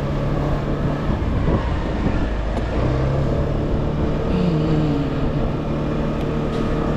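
TVS Pep+ scooter's small single-cylinder four-stroke engine running steadily under way, over continuous road and wind rumble. A tone glides downward about four and a half seconds in.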